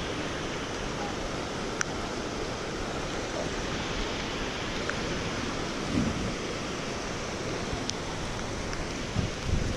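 Steady rushing wind noise, with a few faint ticks and two soft low bumps in the second half.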